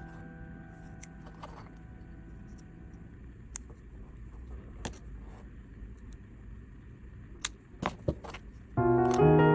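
A few sharp, scattered clicks and taps over a low steady hum, the kind made by handling small hard parts and tools. Piano background music fades out at the start and comes back loudly near the end.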